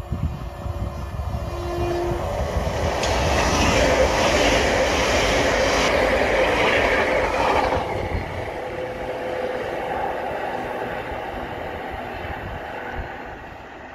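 Great Western Railway Class 800 intercity train passing close by at speed: a rushing, rumbling noise of wheels and air that builds as it approaches, is loudest for a few seconds as the coaches sweep past, drops off suddenly about eight seconds in, and then fades as the train runs away.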